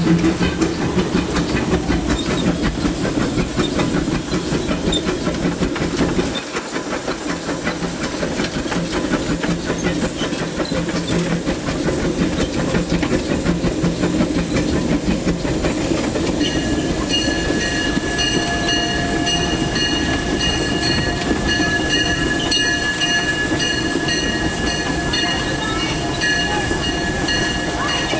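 Disneyland Railroad steam locomotive running along the track, heard from inside its cab, with steam hissing. A little past halfway a steady high-pitched ringing tone comes in and holds.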